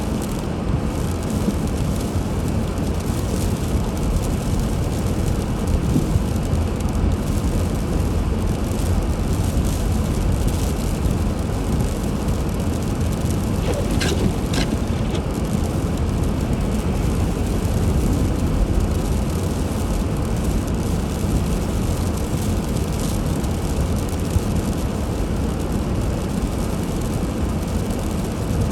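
Car driving on snowy roads: a steady low rumble of road and engine noise, with a brief high squeak about halfway through.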